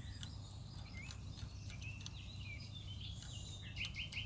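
Birds singing and calling, with scattered chirps and a quick run of repeated notes near the end, over a low steady rumble.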